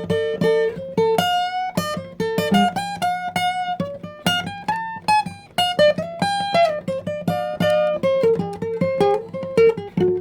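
Instrumental music: a guitar playing a melody of plucked single notes over a low steady bass line.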